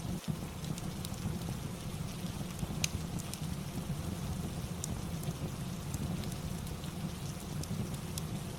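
Steady rain ambience, with scattered short sharp crackles from a fireplace over the even hiss.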